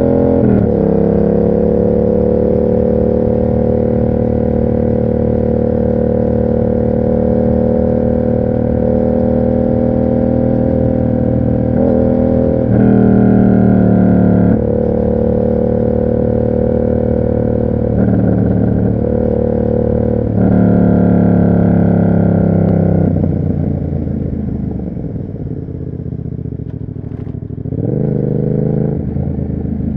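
Yamaha MT-07's parallel-twin engine through an SC Project aftermarket exhaust, ridden at mostly steady revs. Its pitch dips in a gear change just after the start, it grows louder under harder acceleration twice in the middle, then it falls away as the throttle eases and picks up again near the end.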